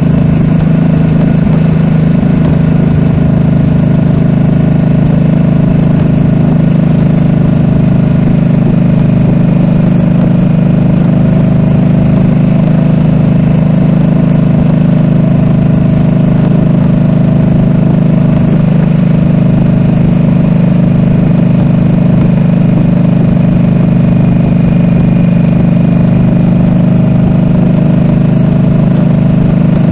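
Harley-Davidson Nightster RH975's V-twin engine running steadily at an even cruise, heard close up from a handlebar-mounted camera.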